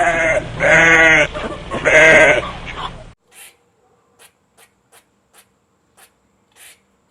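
An animal bleating twice, in long, wavering calls. The sound cuts off about three seconds in, leaving faint, short, high ticks roughly every half second.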